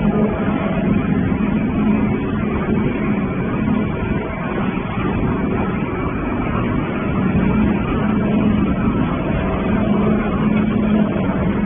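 Tractor engine running steadily as it drives a pulverizer, a continuous mechanical drone with an even pitch.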